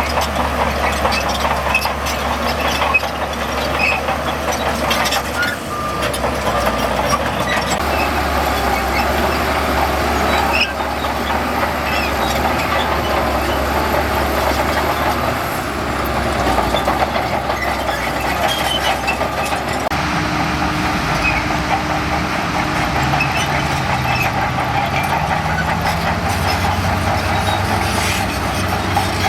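Heavy diesel earthmoving machinery, a bulldozer and dump trucks, running steadily under load, with an engine note shifting in pitch about two-thirds of the way through.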